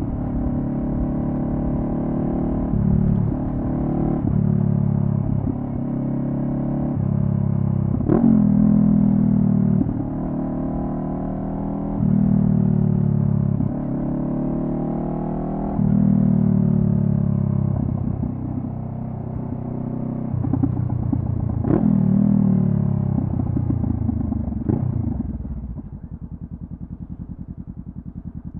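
Honda CB500F's parallel-twin engine through a Delkevic carbon slip-on exhaust, revving up and down through the gears while riding, with a few sharp knocks along the way. Near the end it drops to a quieter, even idle.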